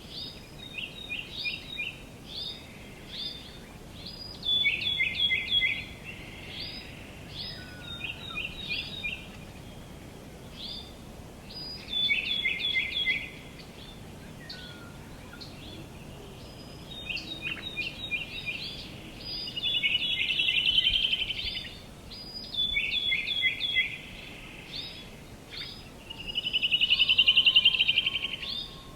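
Songbirds singing: repeated short phrases of quick high chirps, a few seconds apart, over a steady background hiss. Twice, about two-thirds of the way in and near the end, a louder buzzing trill stands out.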